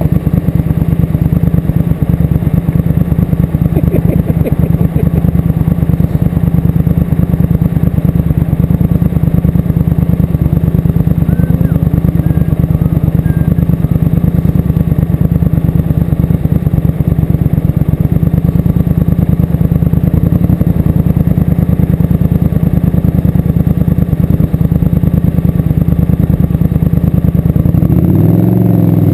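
Motorcycle engine running steadily under the rider, loud and continuous; its note changes about a second before the end.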